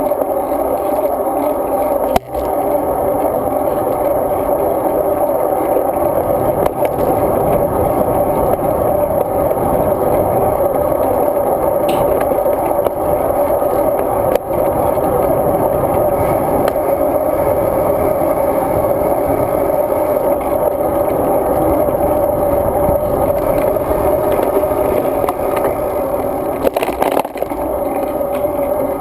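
Road bike riding along: a steady, muffled rumble of rolling and rattling, with a sharp knock about two seconds in and another about halfway through.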